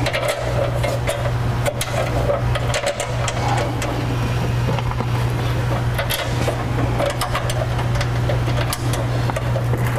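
Steady low hum with scattered light metal clicks and knocks, as the bumper's mesh covers and their bolts are handled and set in place.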